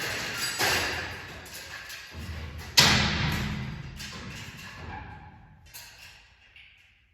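A garage door rolling along its tracks with rattling clicks, then a loud thud about three seconds in, after which the rumble and rattle die away.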